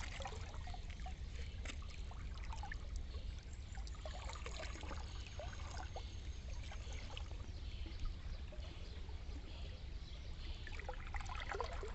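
Water trickling and gurgling in many small, irregular blips, over a steady low rumble.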